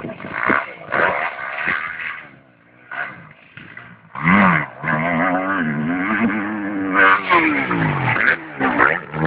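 Motocross bike engine revving, its pitch rising and falling as the throttle is worked. It comes in and out early on, then runs loud and continuous from about four seconds in.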